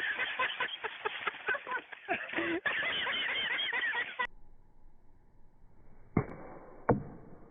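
Geese honking over and over, with wavy, wavering calls, until the sound cuts off about four seconds in. Then two loud thumps, a little under a second apart.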